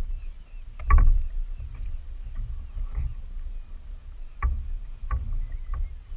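Handling noise on a kayak at sea: a few sharp knocks, one about a second in and two more close together later, over a steady low rumble and the faint wash of water.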